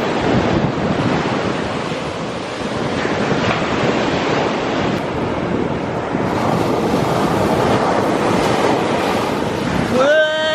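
Ocean waves washing ashore, with wind buffeting the microphone. Near the end a loud, steady pitched sound with many overtones cuts in.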